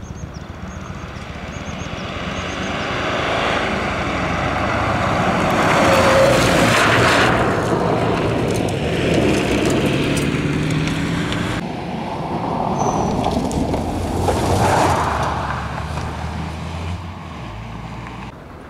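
Car engine driving past on a rally stage at an unhurried reconnaissance pace. It grows louder to a peak about six seconds in and swells again around fifteen seconds before fading.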